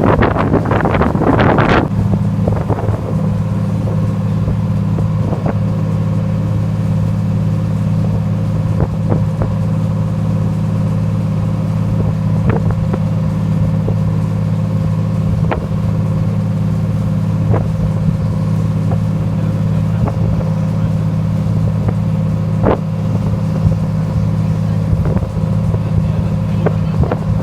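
A fishing party boat's engine running with a steady low drone. A rush of wind noise comes in the first two seconds, and a few faint clicks follow.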